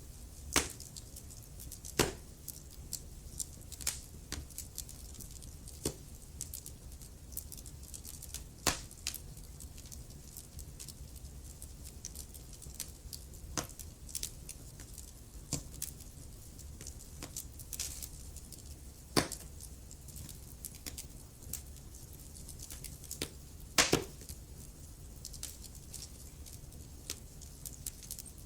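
Wood fire burning in a fireplace: irregular crackles and sharp pops from the burning logs over a faint low rumble, with a few louder snaps, about 2, 19 and 24 seconds in.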